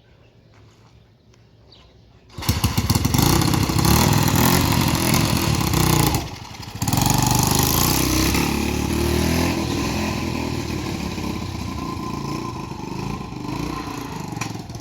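A motorcycle engine starts abruptly about two seconds in and runs loudly. It falters for a moment a few seconds later, then picks up again and keeps running, gradually easing off.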